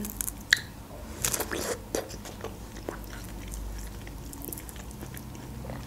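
Close-miked eating sounds: a person biting and chewing a fresh strawberry, with soft, scattered wet mouth clicks and smacks.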